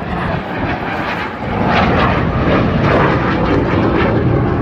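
Aeroplane engine noise from an aircraft flying by, a dense steady roar that grows louder about a second and a half in and stays loud.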